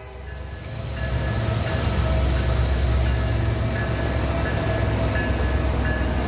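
Train running sound: a steady low rumble that builds up over the first second and then holds, with faint high tones above it.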